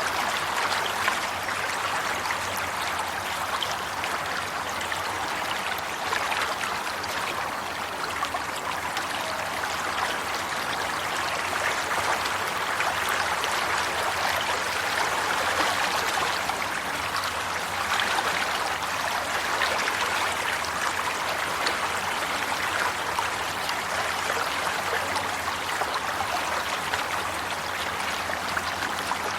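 Flowing stream water running and trickling steadily.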